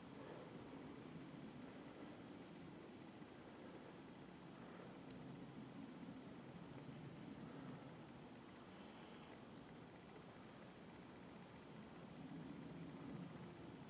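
Faint, steady chirping of crickets at night, an even high trill that pulses rapidly and never stops.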